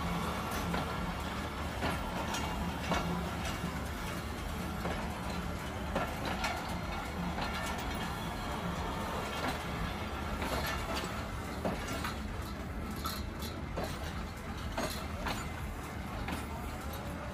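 Train at a railway station: a steady low engine rumble with scattered clanks and knocks.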